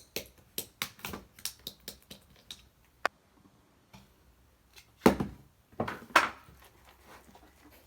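Shaving-foam slime being worked by hand, making a quick run of small sharp pops and clicks, then a few louder, longer squishy crackles about five and six seconds in.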